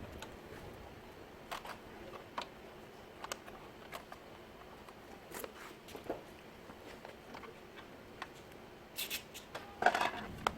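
Sparse light clicks and taps of tools and parts being handled, with a short burst of louder clatter about nine seconds in.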